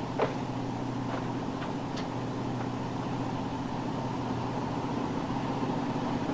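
Steady low drone of a boat's engines and machinery. A sharp click comes just after the start, followed by a few fainter ticks.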